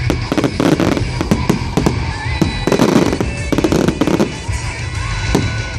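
Fireworks exploding in a rapid series of bangs and crackles, with music playing underneath.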